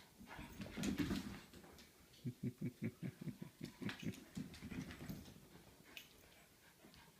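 A dog making short, low vocal sounds: one about a second in, then a quick run of them, roughly six a second, for a few seconds.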